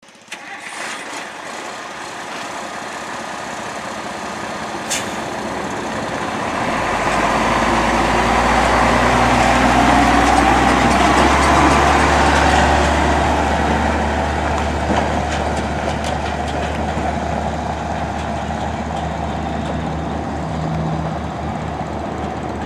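1981 International 1854 dump truck running, its engine growing louder over the first ten seconds or so, then running steadily. A sharp click about five seconds in.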